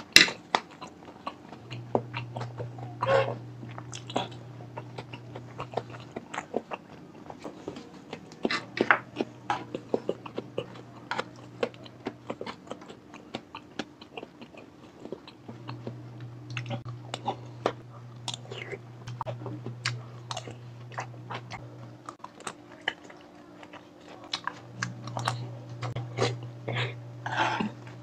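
Close-miked chewing of balut (boiled duck eggs) with fresh chopped chilies: a steady run of wet chewing with many short clicks and small crunches.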